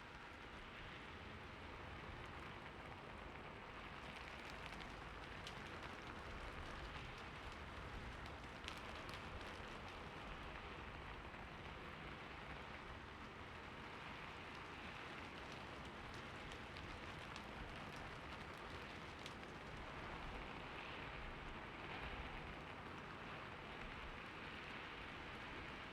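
Steady rain, with a few separate drop ticks standing out from the even patter.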